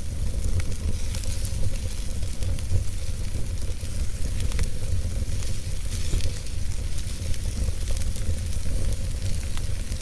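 Wood fire burning in a fireplace: a steady low rumble and hiss with frequent small crackles and pops.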